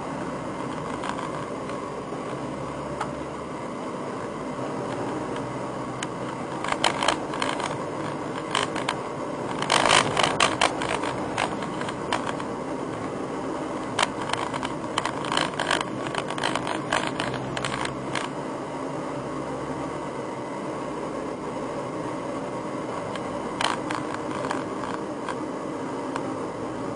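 Steady cabin noise of a Nissan R35 GT-R, with a low hum that shifts now and then. Clusters of short clicks and knocks come through several times: a quarter of the way in, loudest just over a third in, again over the middle, and once near the end.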